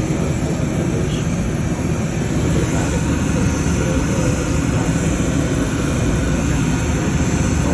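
Commercial bakery conveyor oven running: a steady, loud mechanical drone of its fans and burners.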